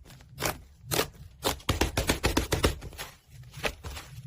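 Slime being squished and pressed by hand, giving irregular sharp clicks and pops.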